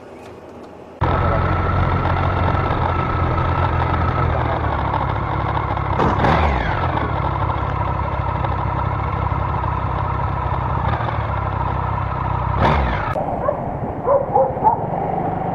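Vehicle engine running steadily with an even low hum. It starts abruptly about a second in, with brief sweeping sounds around six and thirteen seconds.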